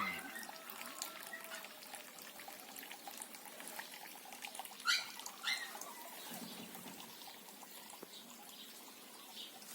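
Faint trickling water with scattered small clicks, and two short rising bird chirps about five seconds in.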